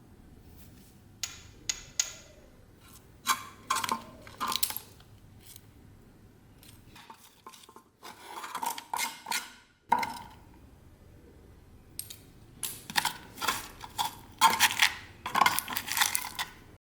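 Small metal objects clinking and scraping as they are handled, in bursts of short knocks and scrapes with quieter pauses between, the busiest stretch near the end; it stops abruptly.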